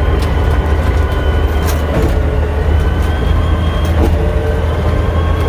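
Caterpillar D6D crawler dozer's six-cylinder diesel engine running steadily with a strong low drone, with a few short metallic clanks from the machine.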